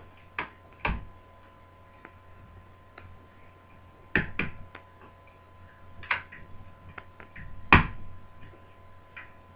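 Scattered clicks and knocks of a screwdriver and small metal parts being handled while the hinge brackets are taken out of a laptop, the loudest knock near the end. A faint steady hum runs underneath.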